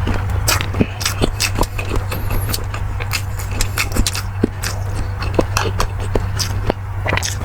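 Close-miked eating sounds: many short, irregular clicks and smacks of chewing, with metallic utensil clinks, over a steady low hum.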